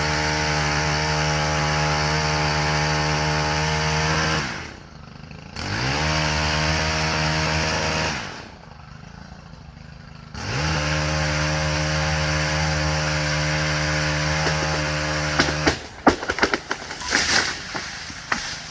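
Gas chainsaw running at full throttle on a large tree, easing off to idle twice and revving back up. Near the end the engine drops away, followed by a quick run of sharp cracks and knocks.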